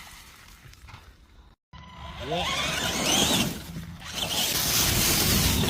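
Quiet at first, with a brief dropout about a second and a half in; then a high-speed RC car takes off, its motor whine rising steeply in pitch, followed by loud rushing noise as it runs.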